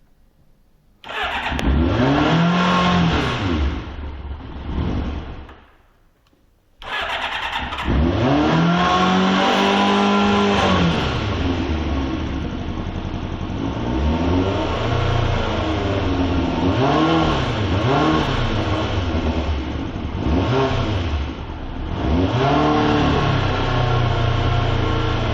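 Kawasaki ZZR600D's inline-four engine starting from stone cold. It catches about a second in and revs up and back down, cuts out after a few seconds, then is restarted. After the restart it is blipped several times before settling into a steady fast idle.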